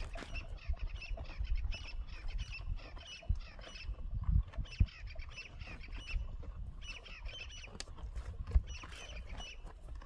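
Birds chirping in short repeated bursts, in several runs, over a low rumble of wind on the microphone and a few handling knocks.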